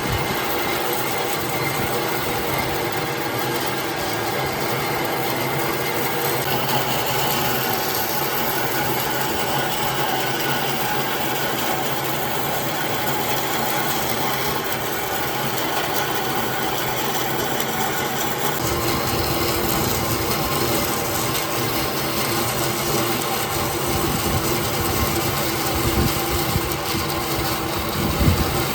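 A woodworking power tool running continuously and steadily, with a few low knocks near the end.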